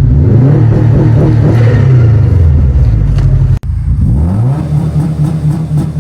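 Subaru WRX's turbocharged EJ205 flat-four, a VF48 turbo and a blocked-off bypass valve, running hard under acceleration in two recorded clips. There is an abrupt cut about three and a half seconds in, and in the second clip the engine note rises as it revs, then eases.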